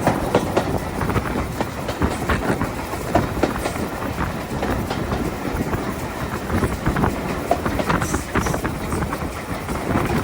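Train hauled by LMS Stanier 8F steam locomotive 48305 running along the track, heard on board: a steady running noise with many irregular knocks from the wheels and carriages.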